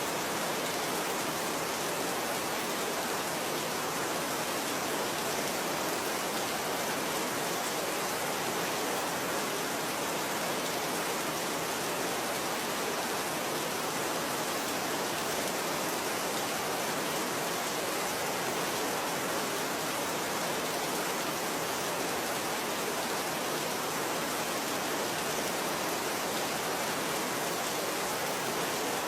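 Steady rain falling, an even sound that holds the same level throughout with no breaks and no single drops standing out.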